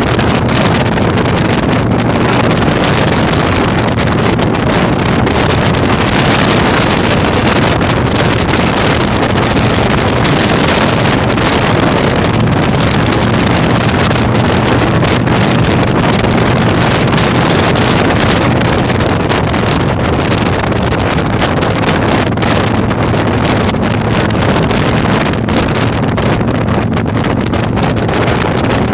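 Heavy wind buffeting on the microphone of a moving motorcycle, a loud steady rush, over the low steady drone of a Yamaha Virago 1100's air-cooled V-twin engine at cruising speed.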